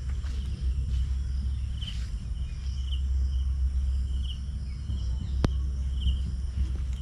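Outdoor ambience at a bird sanctuary: short high chirps from a small animal repeat roughly once a second over a steady low rumble. One sharp click comes about five and a half seconds in.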